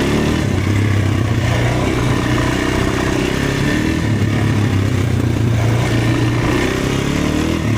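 Dirt bike engine running while being ridden, its pitch rising and falling gently with the throttle.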